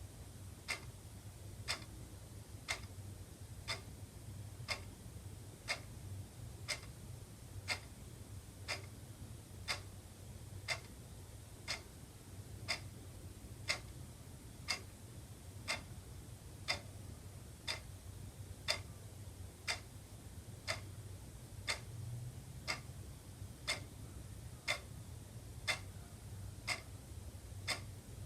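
Wall clock ticking steadily, about one tick a second, over a low steady hum.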